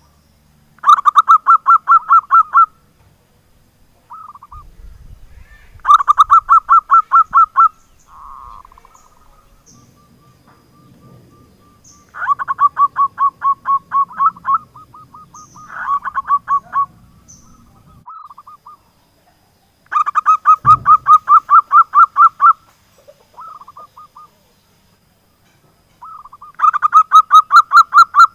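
Zebra dove (perkutut) singing: repeated phrases of rapid staccato cooing notes, each lasting about two seconds, six phrases a few seconds apart, with softer single notes between.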